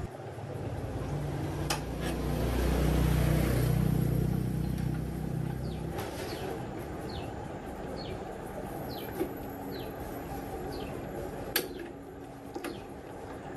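A vehicle engine, likely the repaired tractor's, runs and swells to its loudest about three seconds in, then fades away. Over the rest there is a run of short falling bird chirps and a couple of sharp clicks.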